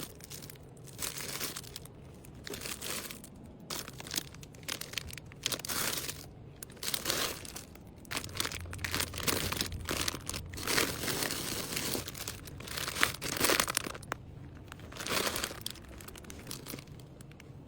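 Packaging crinkling and rustling in irregular bursts as items are handled and packed.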